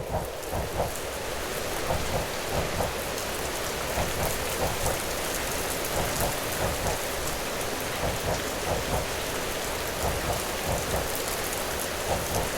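Rain hissing steadily over the low rumble of an EMU local train in motion, with groups of wheel clacks over rail joints coming about every two seconds.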